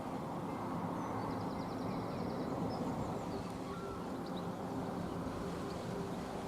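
Outdoor nature ambience: a steady low rushing noise with a few faint bird chirps and a short high trill.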